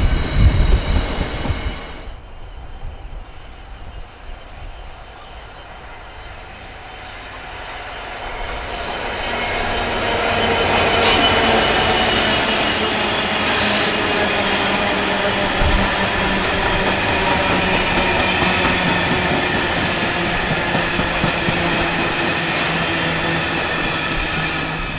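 A train passing on the line: its sound builds from about six seconds in and stays loud, steady whining tones over the rumble of wheels on the rails. A loud passing-train sound cuts off suddenly about two seconds in, before this one.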